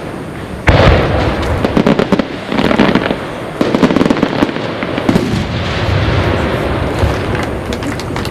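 Aerial fireworks display: a loud shell burst about a second in, then a dense, continuous run of bursts and crackling.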